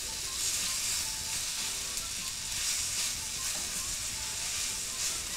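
Chickpea-flour-coated tofu cubes sizzling steadily in hot oil in a nonstick frying pan as they are turned to brown.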